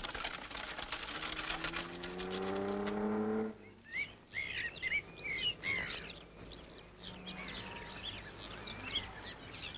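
A rally car's engine accelerating, its pitch rising steadily, cut off suddenly about three and a half seconds in. Birds then chirp repeatedly over a faint background.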